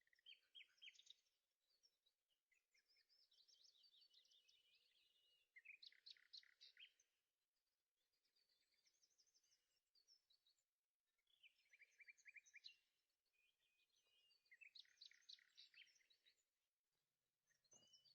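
Faint bird song: short bursts of rapid, high chirping trills repeating every few seconds.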